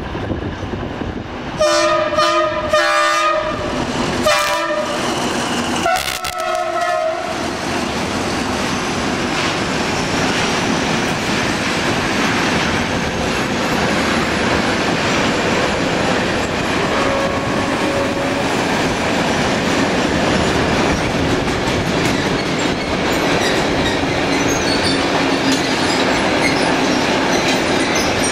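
Diesel-hauled freight train sounding its horn in several short blasts over the first seven seconds, then rolling past close by with the steady rumble and clatter of its wagons.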